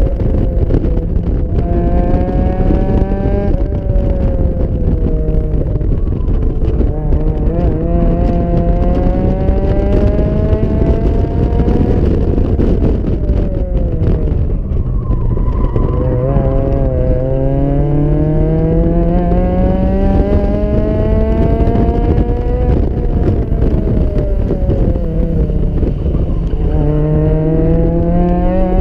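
Car engine pulling hard through the gears: its pitch climbs steadily, drops sharply at each upshift about four seconds in and again around the middle, then climbs once more. Later the engine eases off briefly before revving up again near the end, over a constant rush of wind and road noise.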